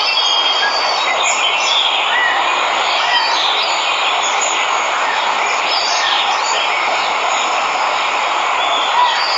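Steady rushing of a waterfall, with birds chirping over it throughout.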